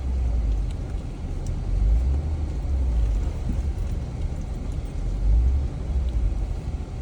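Low rumble of a Jeep driving slowly along a dirt trail, swelling and easing every second or two, with a few faint ticks.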